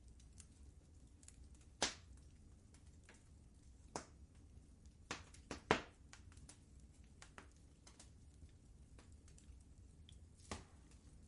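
Fireplace fire crackling: sparse sharp pops and snaps over a low steady rumble, with a quick cluster of louder pops about halfway through.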